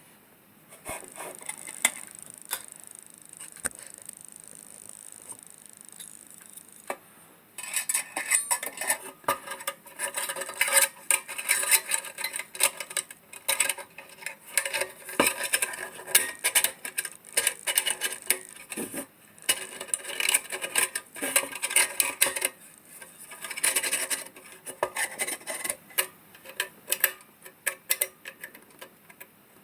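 Hands working on sheet-metal parts of a Dietz Blizzard oil lantern: steady rubbing for the first several seconds, then a busy run of rapid metal clicks, taps and scrapes that thins out near the end.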